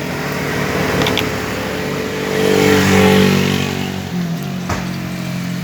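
A motor vehicle's engine passing close by, growing louder to a peak about three seconds in and then fading. A sharp click comes near the end.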